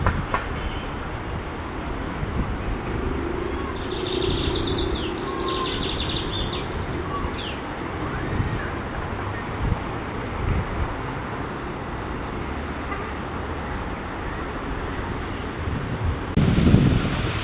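Lined seedeater singing one phrase of buzzy trills and quick falling notes about four seconds in, over a steady rumble of strong wind on the microphone. A heavier gust of wind hits the microphone near the end.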